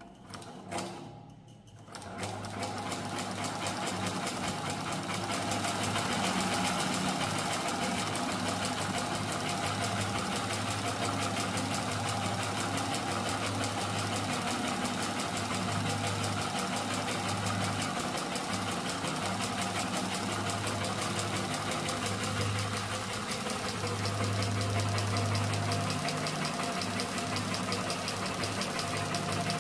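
Handmade PVC boxer engine model running with fast, even mechanical clicking and a steady low hum. It starts after a couple of knocks about two seconds in.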